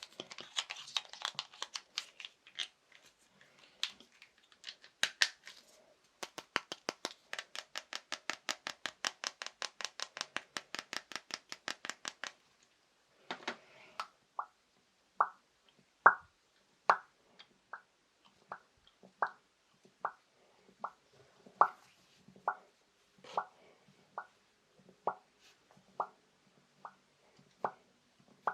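ASMR tapping on small household objects. A brief crinkle comes first, then a fast run of light taps at about six a second. From about halfway the taps turn slower and separate, about one and a half a second, each with a short hollow ringing tone.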